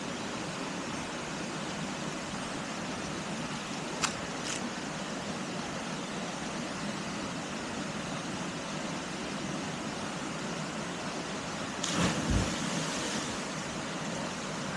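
Steady rush of a waterfall pouring into a pool. A sharp click comes about four seconds in, and a louder low thump with a brief rushing burst comes near the end.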